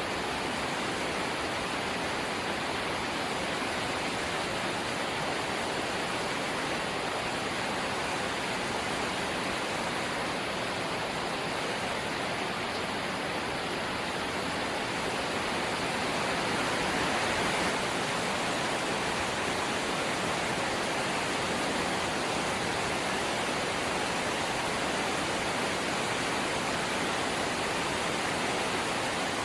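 Light rain falling steadily: an even, unbroken hiss.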